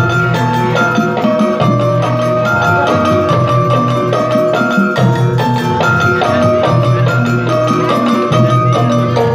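Gamelan-style ensemble music: struck metallophone bars play a stepping melody of short ringing notes over drums and a steady low beat.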